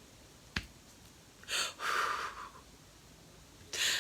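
A single sharp click about half a second in, followed by a soft breathy hiss in two short parts, like a sigh or exhale.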